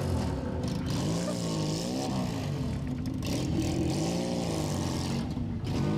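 Car engine running at low speed, its pitch rising and falling every second or so as the throttle is blipped on and off in slow, stop-and-go driving.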